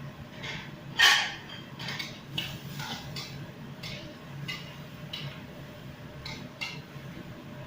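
Kitchen utensils and cookware clinking: about ten sharp clinks with a short ring, the loudest about a second in, over a steady low hum.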